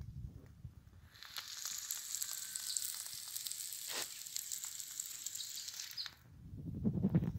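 Masala-coated boiled eggs frying in oil on a hot flat griddle, sizzling with a steady hiss and small crackles. The sizzle starts about a second in and stops about six seconds in, and a low rumble follows near the end.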